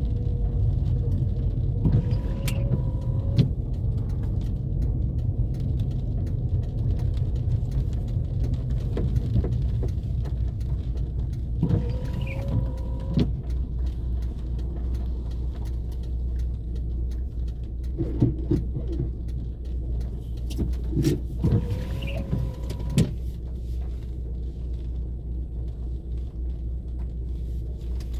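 Car driving on neighbourhood streets, with a steady low engine and road rumble. A few short whining, squeaky sounds rise over it three times, each lasting a second or so.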